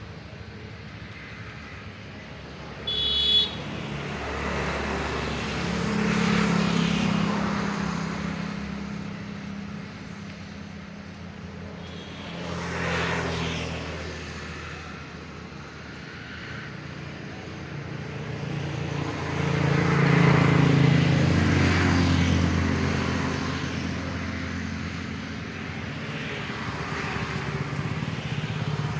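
Road traffic: engines and tyres running, with vehicles swelling louder and fading as they pass, the biggest about two thirds of the way through. A short, high vehicle-horn beep sounds about three seconds in.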